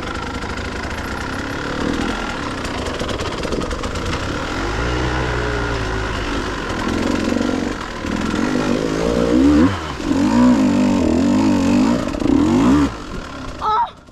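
Dirt bike engine being ridden, revving up and down with wavering pitch. It grows louder in the second half and drops away sharply near the end.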